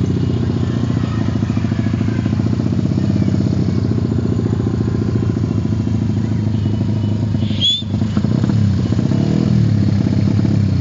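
Motorcycle engines running in a caravan, a steady loud drone whose pitch rises and falls slightly with the throttle. A brief high-pitched chirp cuts in about two-thirds of the way through.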